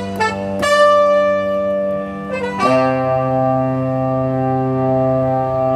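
Yamaha CK61 stage keyboard playing held chords on one of its wind-instrument voices. The chord changes twice, and the last one is held for about three seconds before being released at the end.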